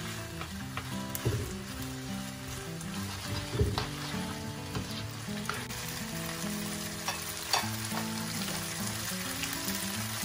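Pasta sizzling in a hot nonstick frying pan as a spatula tosses and scrapes it, with a few sharp clicks of the spatula against the pan.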